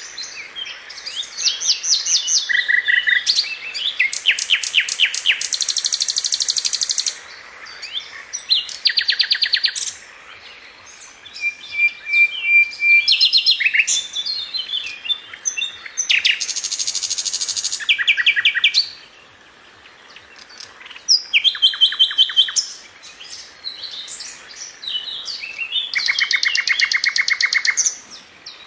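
A songbird singing: a varied, high-pitched song of fast trills of rapidly repeated notes mixed with chirps and short whistles, with a brief lull about two thirds of the way through.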